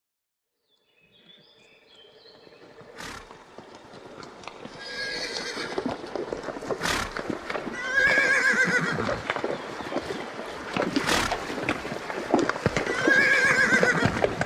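Horses neighing several times, with sharp hoof knocks in between; the sound fades in after about a second of silence.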